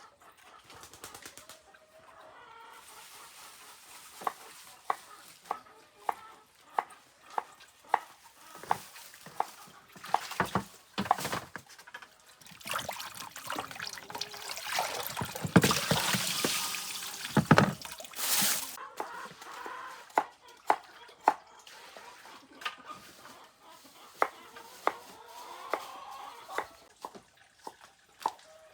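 Water running from a tap for several seconds near the middle while fish and meat are washed, with a series of sharp knocks about every three-quarters of a second before and after it.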